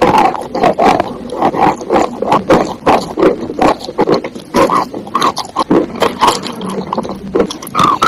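Wet chalk being chewed: irregular crunches several times a second, mixed with wet, squishy mouth sounds.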